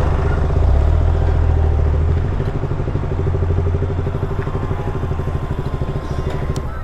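Motorcycle engine running while riding, a steady pulsing engine note that gradually grows quieter over the last few seconds as the bike eases off.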